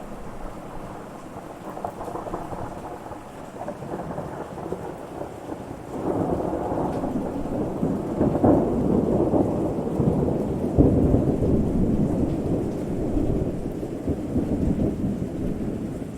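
Rolling thunder: a low rumble that swells about six seconds in, peaks with a heavier clap about eleven seconds in, then slowly dies down.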